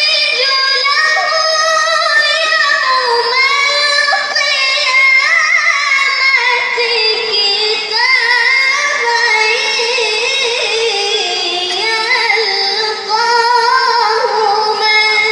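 A child reciting the Quran in tilawah style, drawing out long melismatic phrases in a high voice with wavering ornaments, with a short break about thirteen seconds in.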